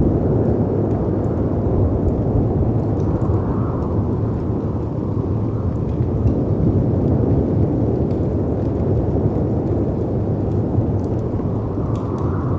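Storm ambience of wind and sea: a deep, steady rumble that swells and eases every few seconds, with a wood fire's faint scattered crackling pops over it.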